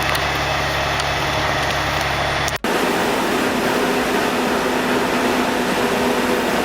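Heavy machine engine running steadily. About two and a half seconds in, the sound cuts off abruptly and is replaced by a different steady machine noise.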